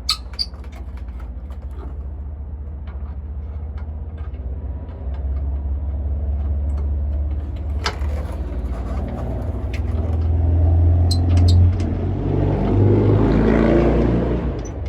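Road traffic passing: vehicle engines and tyres with a steady low rumble that builds about halfway through and is loudest near the end as a vehicle goes by under hard acceleration. A few sharp clicks stand out over it.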